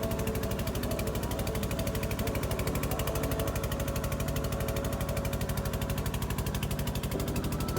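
Boat engine running steadily with a fast, even throb.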